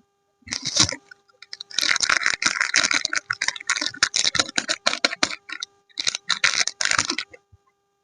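Soap bar packaging being opened, crinkling and crackling: a short burst, then a long stretch of fast crackle, then another burst near the end.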